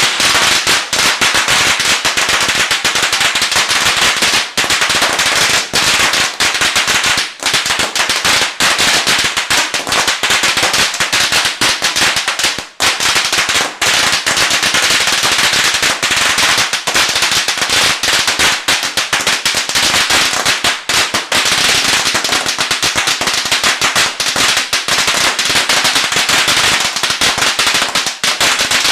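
Firecrackers going off in a dense, unbroken run of rapid bangs and crackles that stays loud throughout.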